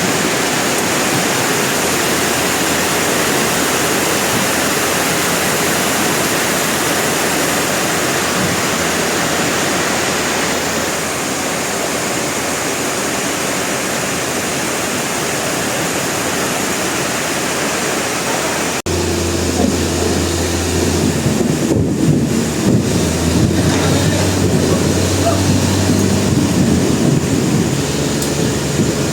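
Loud, steady noise of sawmill machinery running. About two-thirds of the way through it switches abruptly to a different machine sound, with a low steady hum and irregular knocks.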